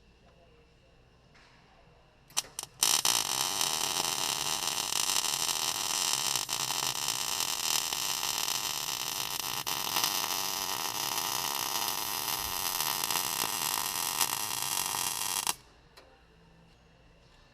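Electric welder laying a bead on a rusted Jeep Wrangler YJ frame: two or three short sputtering starts, then a steady crackling sizzle for about thirteen seconds that stops abruptly.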